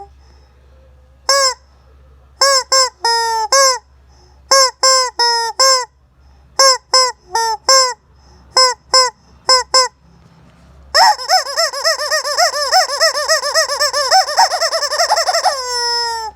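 Rubber chicken squeeze toy squawked again and again: about twenty short honks in quick clusters, each dipping a little in pitch. Then comes one long, wavering squawk lasting about five seconds, which sinks in pitch as it dies away near the end.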